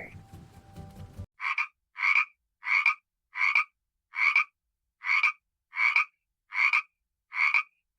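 A frog croaking: a regular series of short croaks, about one every three quarters of a second, starting about a second and a half in.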